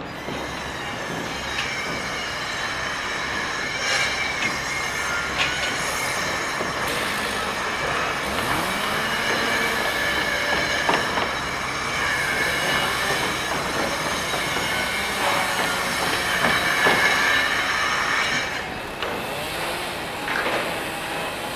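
Heavy machinery running loudly, with continuous high metallic squealing tones over a rumble and a few sharp knocks; it eases about 19 seconds in.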